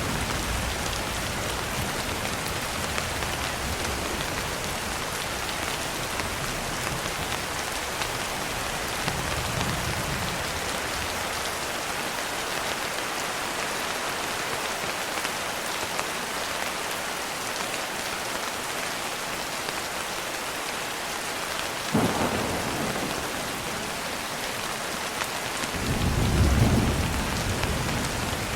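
Steady rain falling, with thunder: low rumbles at the start and around ten seconds in, a sharp crack a little after twenty seconds, and a louder rumble near the end.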